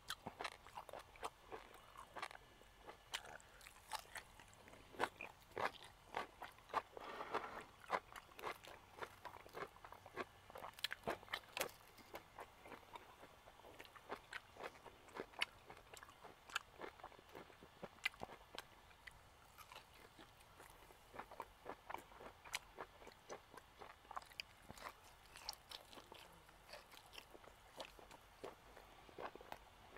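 A person chewing and biting grilled meat up close to the microphone: irregular sharp mouth clicks and crunches, several a second.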